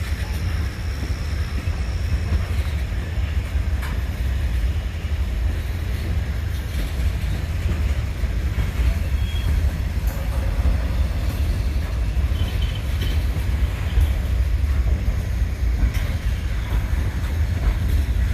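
Freight train cars rolling past, a steady low rumble of steel wheels on the rails, with a faint high wheel squeal over the first couple of seconds.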